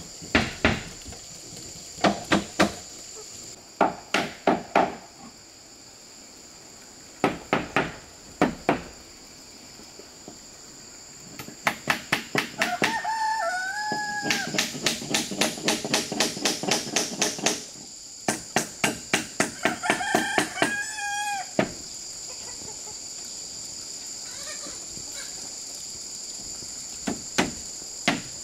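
Hammer blows on wood come in quick runs of several strikes, over a steady high insect drone. A rooster crows twice in the middle.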